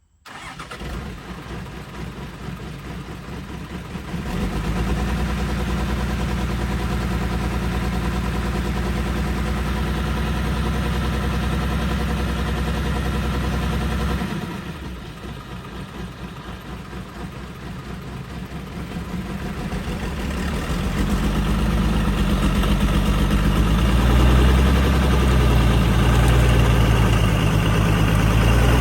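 Small truck's engine running, starting abruptly; it gets louder about four seconds in, eases off around halfway, then climbs steadily again toward the end.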